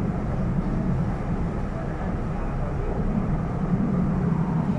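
Steady running noise inside a carriage of an MTR R-Train electric multiple unit travelling between stations: a constant low rumble of wheels and running gear on the track.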